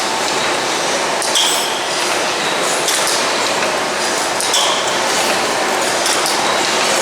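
Stationary steam mill engine running: a steady hiss of steam with a regular mechanical beat about every one and a half seconds.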